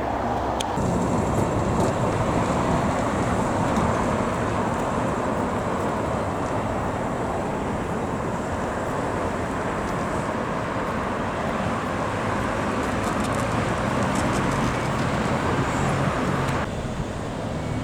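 Steady vehicle rumble with a few faint clicks, cutting to a different, quieter background near the end.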